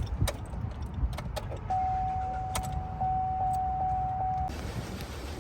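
Keys clicking and jingling at a truck's ignition, then a steady single warning tone for about three seconds over the low rumble of the vehicle. The tone cuts off about four and a half seconds in.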